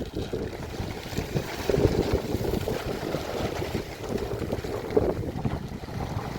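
Wind buffeting the microphone: an unsteady low rumble.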